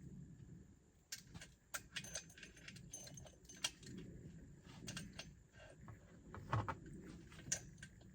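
Loose .325-pitch saw chain clinking against itself and the chainsaw's guide bar as it is handled and fitted on, a quiet, irregular run of small metal clicks starting about a second in.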